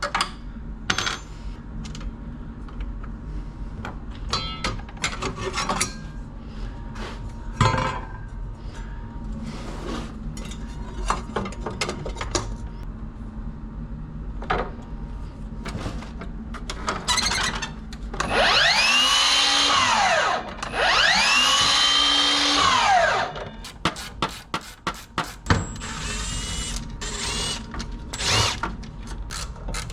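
A small power tool's motor is run up twice in short bursts, about two seconds each, rising in pitch and winding back down each time. Before that come scattered clinks and knocks of tools and metal parts being handled.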